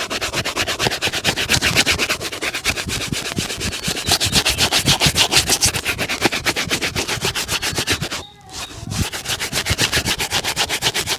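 Rapid back-and-forth buffing strokes on a shoe during a shoe shine, about seven strokes a second, with a brief pause about eight seconds in.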